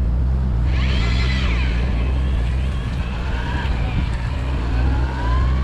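Fishing boat's engine running steadily with a low hum, with a faint high whine gliding up and down in pitch over it from about a second in.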